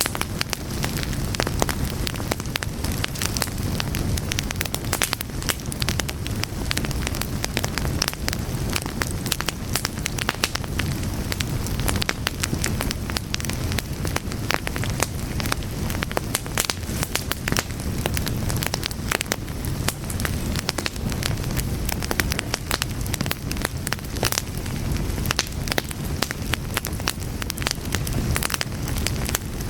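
Wood fire burning with dense, irregular crackling and snapping over a steady low rumble of flames.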